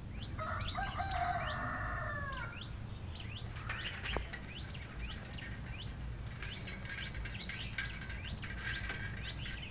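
Birds chirping in many short, quick notes, with one longer drawn-out call that falls away at its end in the first couple of seconds.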